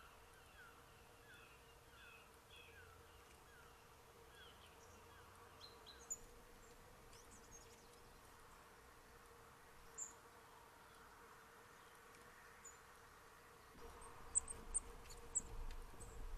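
Faint wild birdsong: a repeated series of short falling calls for the first few seconds, then scattered brief high chirps, over a faint steady hum. Near the end a louder stretch of several sharp high chirps comes over a low rumble.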